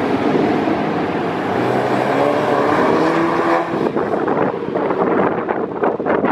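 Car engine revving, its pitch rising slightly, then breaking off into rougher, uneven noise about three and a half seconds in.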